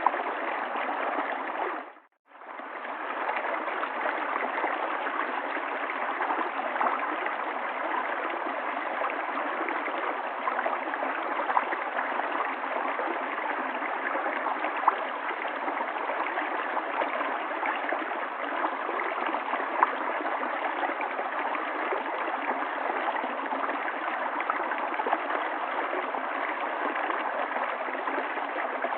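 River water flowing steadily over stones, a continuous babbling rush with small splashes. About two seconds in it dips briefly to near silence and fades back in.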